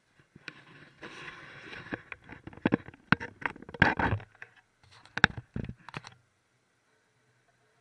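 Handling noise at a toilet tank: a scrape for about a second, then a string of sharp clicks and hard knocks of parts being moved and set down, stopping about six seconds in.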